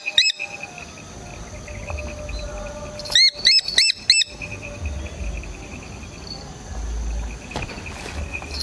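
A bird gives a quick series of about five sharp, arching calls about three seconds in, over a steady pulsing insect chirr.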